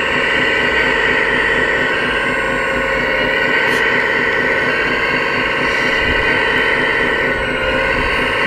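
1/14-scale RC construction machinery running: a steady, even whine made of several held tones over a fast pulsing low rumble.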